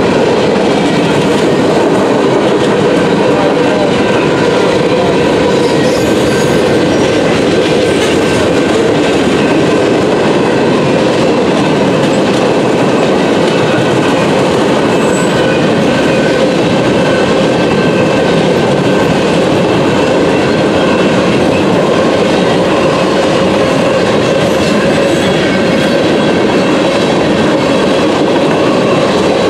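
A long mixed freight train's cars (covered hoppers, flatcars and boxcars) rolling past at a grade crossing. It is a loud, steady rumble of steel wheels on rail with clickety-clack over the joints and a few faint steady high tones.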